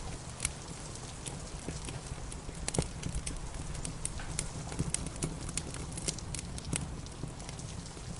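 Wood fire crackling in a fireplace: irregular sharp pops and snaps, a few each second, over a steady low rumble and hiss.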